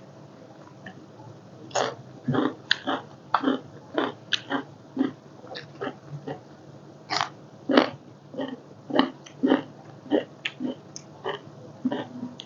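Close-up eating sounds: a person chewing papaya salad and raw vegetables, with irregular wet smacks and crunches about two or three a second.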